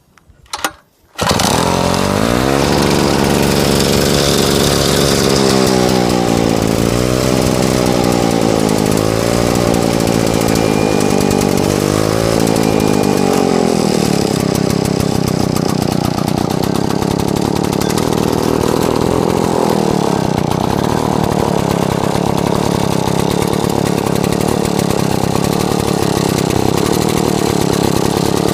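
Clinton two-stroke engine on a Wards Bush Wacker brush trimmer starting, catching about a second in and then running loud, its speed rising and falling several times before it settles to a steadier run.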